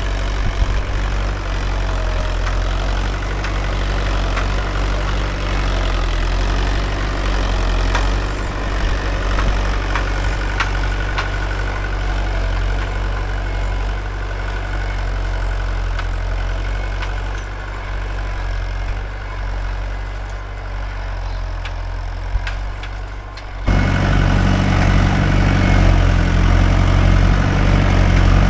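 Mahindra 575 DI tractor's four-cylinder diesel engine running steadily while working a nine-tine cultivator. Near the end it turns suddenly louder and heavier.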